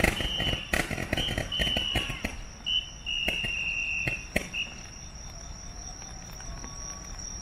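Fireworks crackling and popping, with several short, steady high whistles, dying away about four and a half seconds in. Insects keep up a steady high trill throughout.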